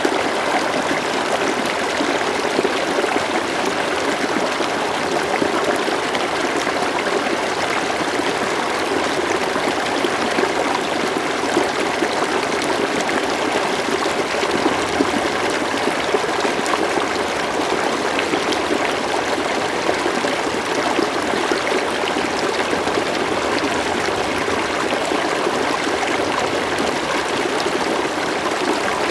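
River water flowing over stones, a steady rushing babble with small trickling splashes and no change throughout.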